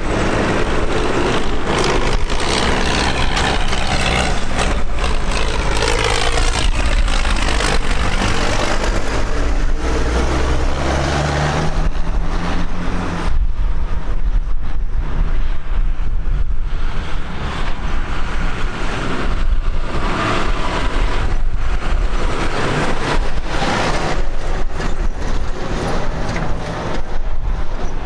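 Tractor engines running as tractors drive past, the engine note shifting in pitch during the first several seconds.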